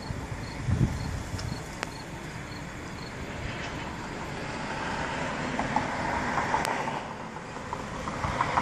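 Thunder rumbling and building over several seconds, with a short low rumble about a second in. A cricket chirps about twice a second during the first three seconds.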